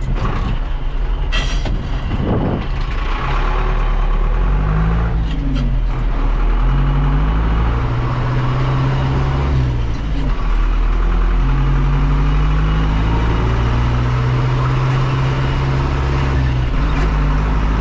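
Vehicle engine running under load, its pitch stepping up and down a few times as it changes speed.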